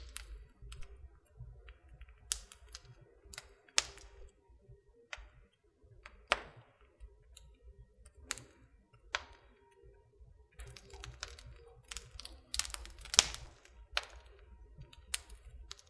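Wood fire in a fireplace crackling, with irregular sharp pops and snaps, a few louder than the rest, over a faint low rumble.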